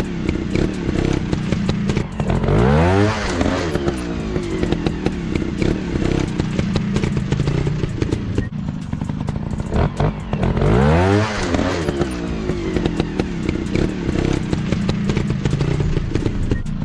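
Dirt bike's single-cylinder four-stroke engine running, revving up and back down twice, about three seconds and about eleven seconds in, with scattered sharp clicks and clatter throughout.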